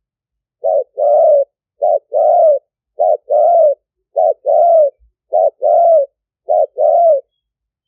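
Spotted dove cooing: six phrases about a second apart, each a short note followed by a longer note that rises and falls.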